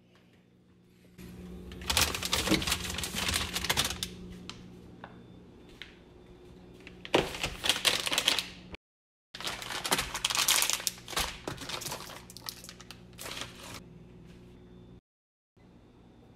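Several bursts of rapid crackling and clicking, the loudest about two seconds in and again near the middle, over a steady low hum. The sound drops out completely twice for about half a second.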